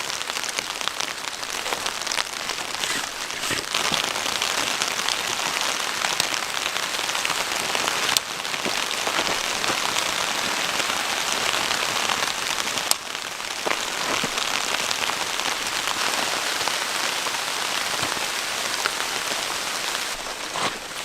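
Precipitation pattering densely and steadily on a surface, many fine ticks merging into a hiss, with brief dips about eight and thirteen seconds in.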